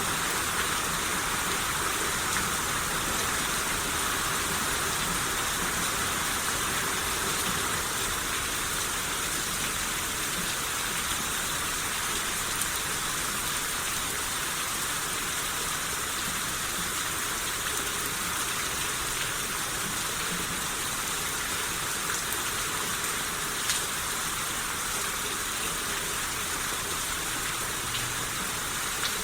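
Steady rain shower falling, an even hiss with occasional separate drop ticks.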